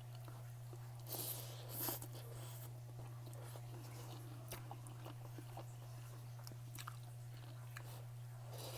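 A person chewing food close to the microphone, with two brief louder bites about a second and two seconds in and small mouth clicks, over a steady low hum.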